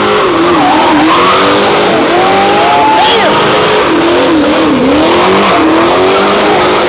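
Car spinning donuts with the engine held at high revs, its rear tires squealing in a wavering, up-and-down pitch over a loud rush of tire noise.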